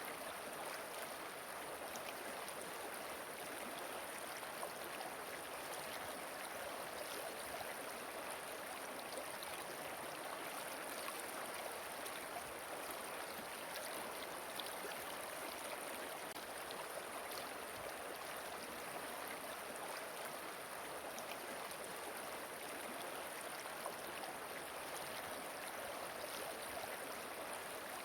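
Flowing water rushing steadily, an even hiss with small splashes scattered through it.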